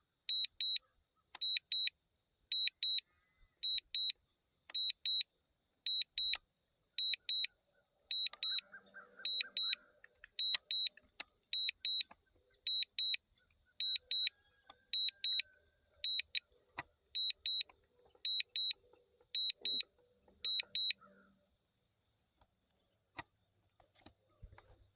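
DJI drone low-battery warning: short high electronic beeps in pairs, repeating about once a second, which stop near the end. The warning is set off by a nearly empty battery.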